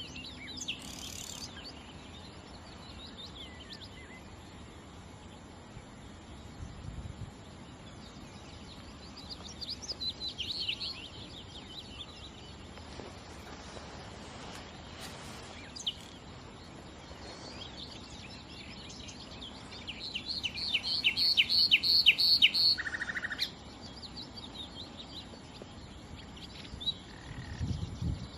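Nightingale singing in separate phrases over a faint steady hiss. The loudest phrase, about 20 seconds in, is a fast run of repeated high notes that ends in a short lower note.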